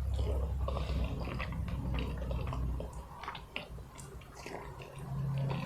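Close-miked wet eating sounds: soft sticky clicks, squelches and lip smacks of chewing curry-soaked rice and chicken.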